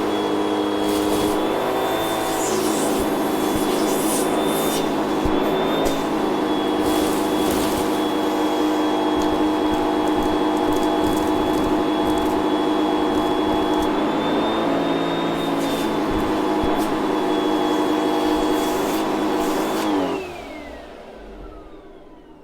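Hoover vacuum cleaner running at full power with a high motor whine, its pitch dipping briefly a couple of times, then switched off near the end, the motor whining down as it spins to a stop.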